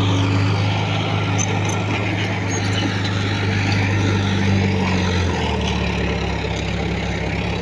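Heavy diesel engine of earthmoving machinery running steadily. Its note steps down and softens about five seconds in.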